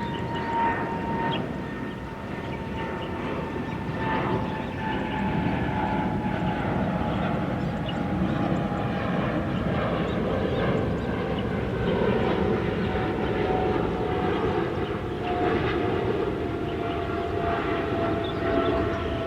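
Jet aircraft engines running loud, with a rumble that builds and a high whine that slowly falls in pitch.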